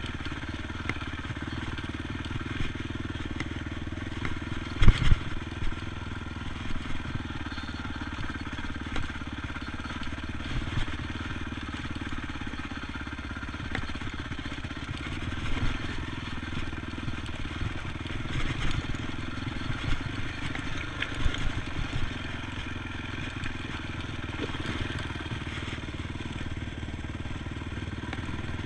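ATV engine running steadily, with scattered knocks and rattles, the loudest about five seconds in.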